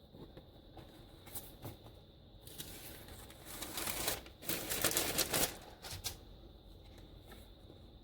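Paper and card being handled: a few light taps, then a stretch of rustling and shuffling that builds up and is loudest in the middle before dying away.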